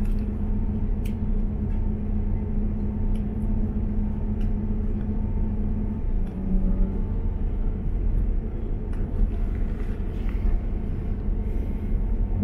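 Inside a Class 158 diesel multiple unit under way: a steady rumble of wheels on the track under the engine's held low hum, with a few faint clicks.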